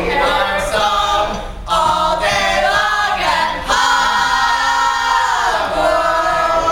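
Several voices singing a cappella together, with a long held note in the middle that slides down near the end.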